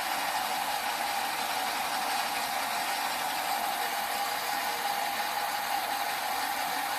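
Vehicle engine idling steadily, with a constant high hum over an even rushing noise.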